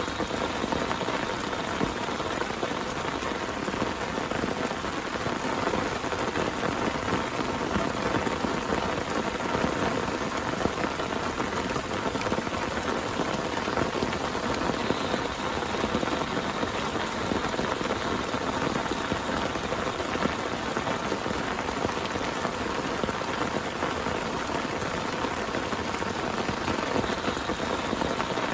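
Heavy rain falling steadily: a dense, even hiss of countless drop impacts with no let-up.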